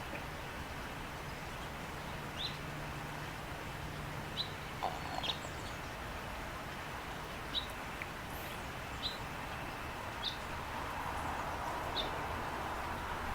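A small bird giving single short, sharp chip calls, repeated every second or two, over a steady low outdoor background noise.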